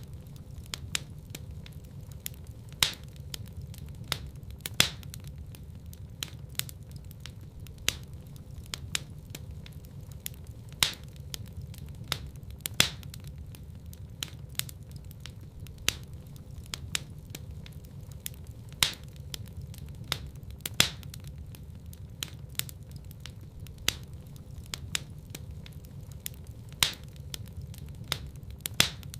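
Wood fire crackling in a fireplace: sharp pops and snaps, one or two a second, with a few louder cracks, over a low steady rumble of the burning fire.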